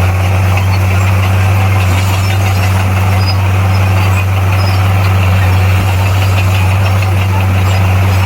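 Bulldozer's diesel engine running steadily, a loud constant low drone.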